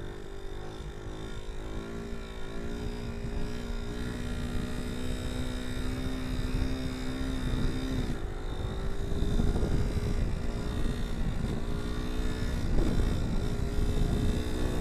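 1984 Suzuki SP250's single-cylinder four-stroke engine pulling under throttle through a wheelie, its pitch climbing slowly, then dropping suddenly about eight seconds in and running rough and uneven for a couple of seconds before it steadies again. A low wind rumble runs under it.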